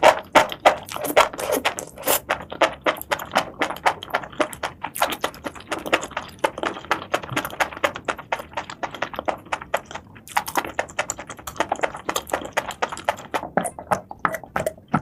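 Close-miked eating sounds: seafood being chewed, with dense, uneven crisp crackling and smacking and a brief lull about ten seconds in.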